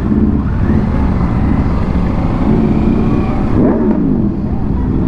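Vehicle engine running with a steady low rumble; a little over three and a half seconds in, a rev climbs and falls back.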